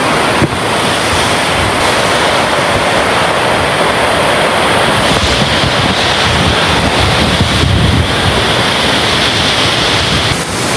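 Strong thunderstorm wind gusts with driving rain, a loud steady rush with the wind buffeting the microphone in a low, uneven rumble.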